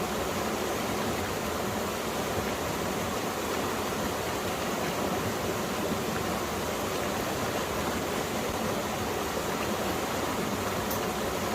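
Mountain valley stream rushing and burbling over rocks, a steady, even flow of water. A couple of faint ticks are heard, one near the start and one near the end.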